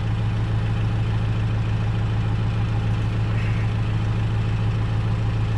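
An engine idling steadily, a constant low hum with an even pulse.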